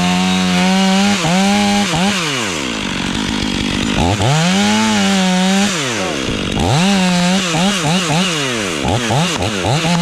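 Chainsaw engine revving in bursts: the throttle is held wide open for a second or two at a time and let back down between. Near the end it changes to a run of quick, short blips.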